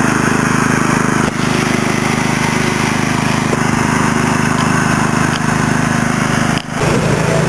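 Riding lawn tractor's small engine running steadily and close. About six and a half seconds in, the sound drops out briefly and comes back at a slightly lower pitch.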